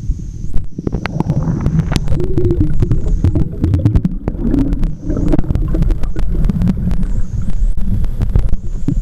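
Underwater camera audio: a loud, churning low rumble of water moving against the housing, with many sharp clicks and crackles throughout.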